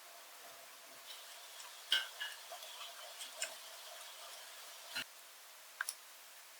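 Small birds tapping and pecking at a bird feeder: a scatter of light, irregular ticks and taps. The loudest come in a cluster about two seconds in, then a single tap and a quick double tap near the end.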